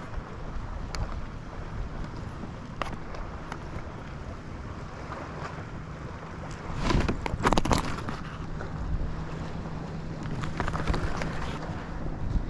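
Water lapping around a kayak's hull with wind on the microphone and a few light knocks, a louder burst of noise about seven seconds in, and a faint steady low hum through the second half.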